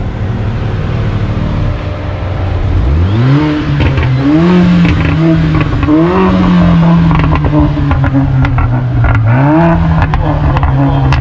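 Mercedes-AMG A45's turbocharged four-cylinder engine being revved while standing still: about three seconds in the revs climb, then are held up with several quick blips. A scatter of short sharp cracks comes in the second half.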